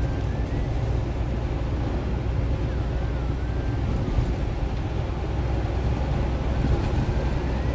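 Steady low rumble of engine and road noise inside a semi truck's cab while driving.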